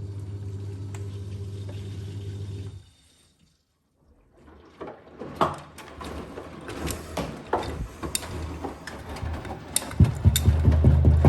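Blomberg Rapidjet washing machine running: a steady motor hum cuts out about three seconds in. After a short pause the drum turns again with irregular knocking and clattering that grows louder near the end. The knocking is a returning fault that makes the machine loud, especially on spin.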